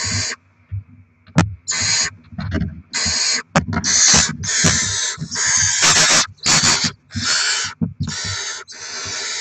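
Barn owl chicks giving their harsh, hissing begging calls in a rapid run, roughly one every three-quarters of a second, with scattered knocks underneath.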